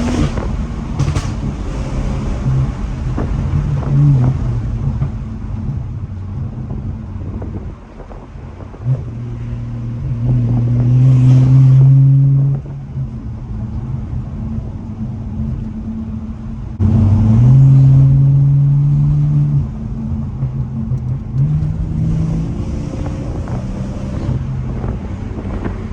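Tuned BMW 440i's B58 turbocharged 3.0-litre straight-six with a catless downpipe and straight-piped exhaust, driven hard. There are two loud full-throttle pulls rising in pitch, about nine and seventeen seconds in, each cut off sharply as the throttle is lifted, between stretches of lighter throttle.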